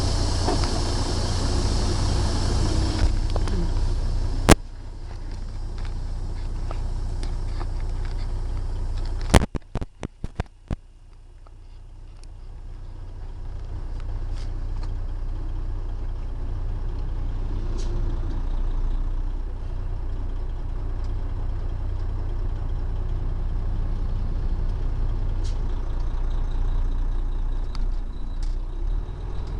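Heavy truck cab interior of a Freightliner Columbia: steady low engine drone with road noise. A sharp click comes about four and a half seconds in and a quick run of knocks around ten seconds, after which the sound dips and builds back up.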